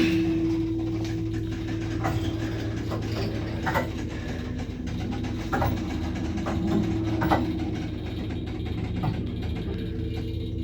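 1974 Stromashina passenger lift running, its loud electric motor giving a steady hum with a held whining tone, with short knocks and clicks every second or two.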